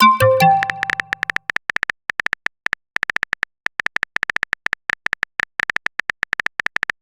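A short electronic notification chime at the start, fading over about a second, then a long run of quick, irregular clicks from a phone-keyboard typing sound effect, several a second.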